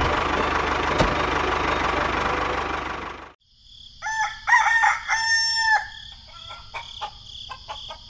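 A rooster crowing: two short calls and then one longer held crow, about four to six seconds in. Before it, a loud steady noise cuts off suddenly about three seconds in. After the crow come scattered light clicks.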